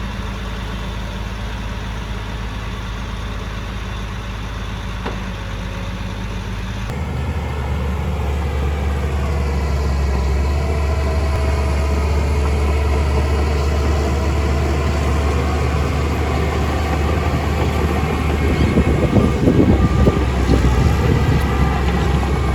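Engine of a heavy construction machine running steadily. About seven seconds in the sound changes abruptly to a deeper, louder engine note, which turns rougher near the end.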